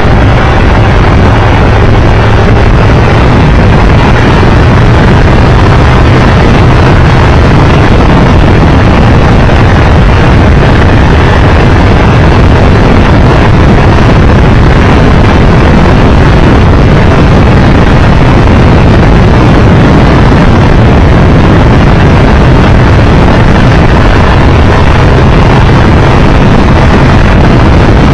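Wind rushing over the microphone, very loud, over the steady drone of a Triumph Tiger Explorer 1200's three-cylinder engine while riding.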